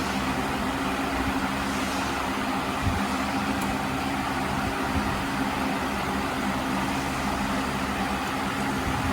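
Steady mechanical hum: a constant low drone with a few steady tones under an even hiss.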